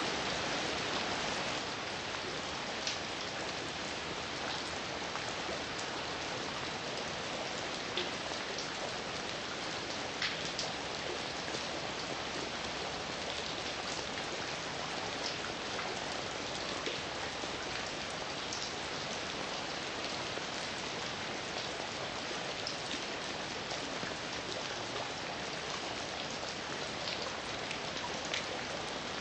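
Steady heavy rain falling, with an even hiss and scattered louder individual drop ticks.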